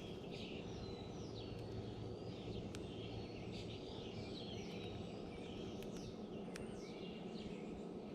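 Several small birds chirping and calling at once, short overlapping notes throughout, over a steady low background rumble, with a few faint clicks.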